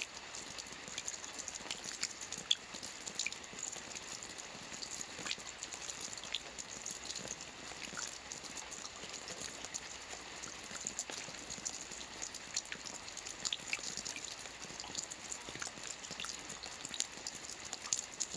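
Soft rain falling on a roof: a steady hiss with many small, scattered drop ticks.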